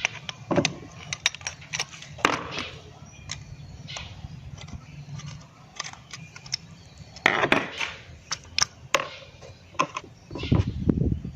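Small metal engine parts and hand tools being handled on a work surface: irregular clinks, taps and knocks, with a couple of short scraping or rubbing passages, while carburetor parts are cleaned.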